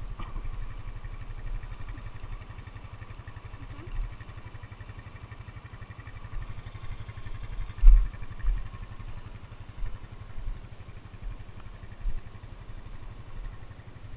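ATV engine running steadily at low speed, a fast even rumble of firing pulses. Several low thumps break through it, the loudest about eight seconds in.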